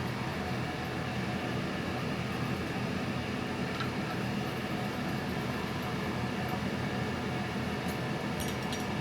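Steady machine hum and noise, even in level throughout, with a few faint clicks about eight seconds in.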